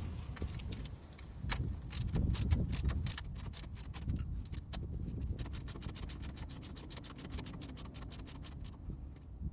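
Hand ratchet wrench clicking rapidly and evenly, about six clicks a second, while a nut or bolt on the front suspension is turned, over a low rumble.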